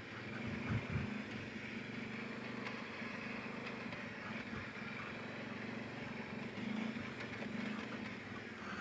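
Kawasaki Brute Force 750 ATV's V-twin engine running steadily while riding a woods trail.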